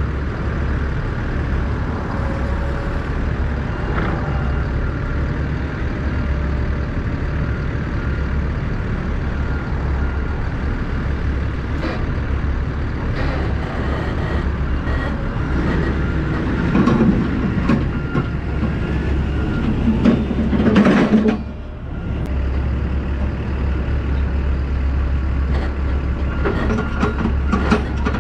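Heavy diesel engine idling steadily, with a louder stretch of machinery noise about two-thirds of the way through that cuts off sharply.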